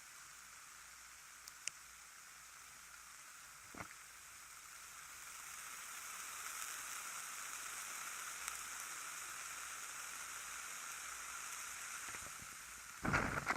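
Ear candles burning at both ears: a soft steady sizzling hiss that grows louder after a few seconds, with a few faint ticks. Loud crackling starts just before the end.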